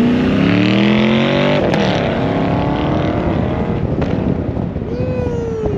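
A car engine accelerating hard, its pitch climbing, dropping at a gear change about two seconds in, then climbing again. Near the end a tone falls in pitch.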